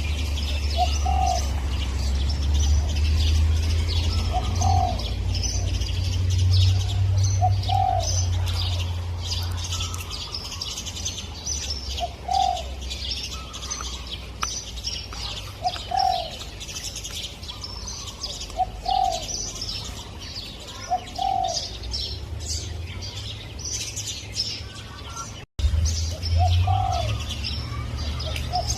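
Spotted dove cooing, one short low coo every two to four seconds, over a busy chorus of small birds chirping. A low rumble runs under the first third and returns near the end.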